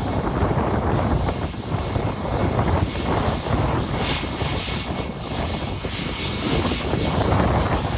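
Airliner jet engines running on departure, a steady roar with gusty wind buffeting the microphone.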